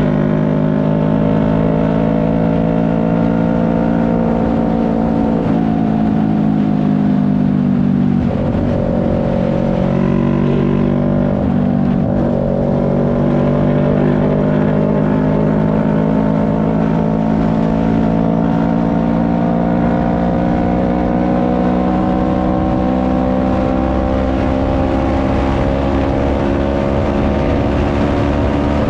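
CFMoto 400NK's parallel-twin engine running while riding. Its pitch eases down at first and dips briefly twice about a third of the way in, then climbs slowly and steadily.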